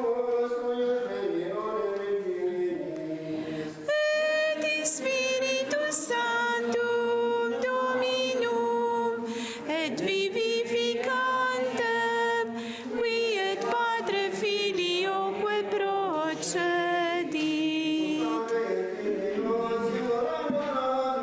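Unaccompanied voices singing a chant together, moving in held notes that step up and down.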